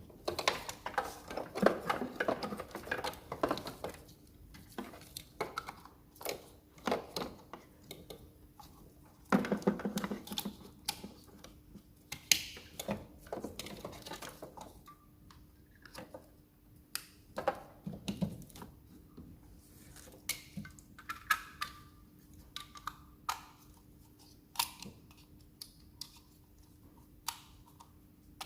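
Irregular metallic clinks, taps and knocks of hand tools and parts being handled while components are connected up on a car, busiest in the first few seconds and again about nine seconds in, over a faint steady hum.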